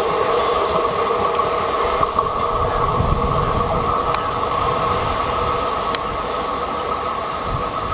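A train running along the track: a steady whine over the rumble of the wheels, with a few sharp clicks along the way.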